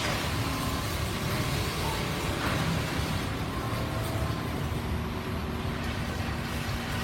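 Steady mechanical din of many Richpeace single-head quilting machines running together.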